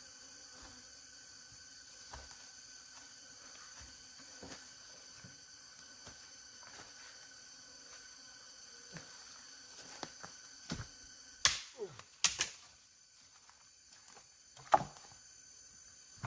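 Crickets trilling steadily in the forest, a continuous high insect chorus, with scattered soft knocks and a few sharper knocks about two-thirds of the way through.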